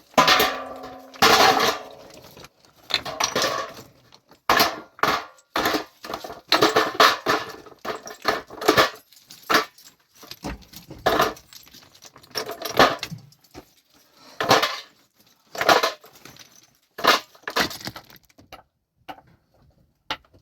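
Hard objects knocking and clattering against one another: about fifteen irregular sharp strikes, roughly one a second, each with a short ringing tail. The strikes die away near the end.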